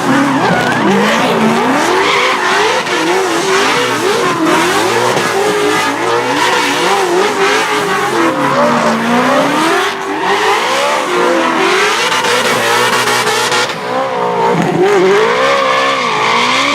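Drift car engine revving up and down again and again as the car slides, with tyres squealing.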